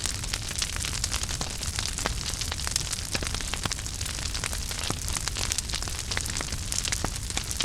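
Wood fire burning in a fireplace: many small irregular crackles and pops over a steady low rumble of the flames.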